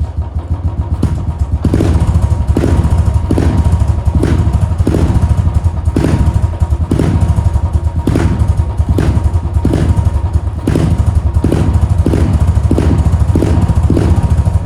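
Royal Enfield Bullet's single-cylinder engine running with a steady low thump, with sharp knocks recurring about once a second over it.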